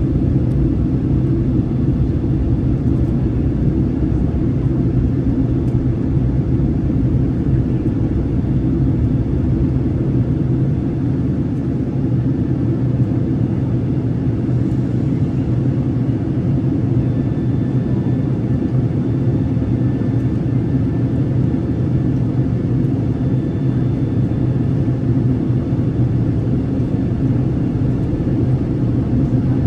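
Steady low rumble of a passenger airplane in flight, engine and airflow noise heard from inside the cabin.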